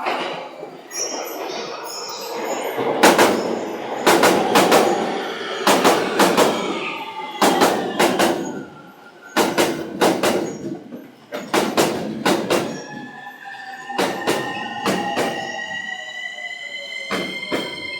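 Steel wheels of a 15-car electric commuter train clattering very loudly over rail joints on a bridge-like section: sharp clacks in quick pairs and triplets, one truck after another, a group every second or two, over the rolling hiss of the wheels. From about twelve seconds in, a whine gliding in pitch rises above it as the train slows.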